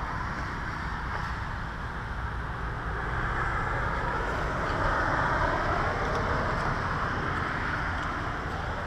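Steady road traffic noise, swelling in the middle as a vehicle goes by and then easing off.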